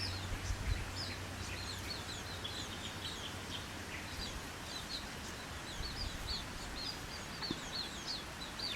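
Small songbirds chirping in a steady run of short, high chirps, several a second.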